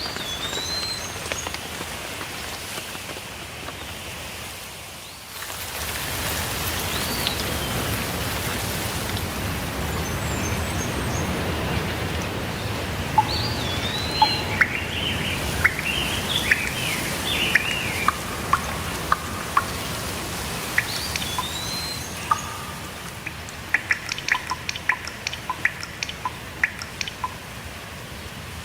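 Steady rainfall with birds chirping over it. One bird's rising-and-falling call recurs about every seven seconds, and a run of sharp drops or ticks comes near the end. The rain dips and then comes back up suddenly about five seconds in.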